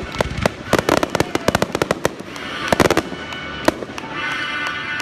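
Fireworks finale barrage: many sharp bangs and crackles in rapid succession for about two seconds, then a few single bangs. A music soundtrack plays underneath and comes through more clearly near the end.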